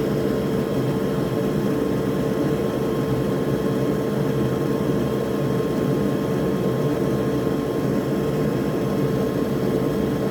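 Solder fume extractor fan running with a steady whir and a constant hum.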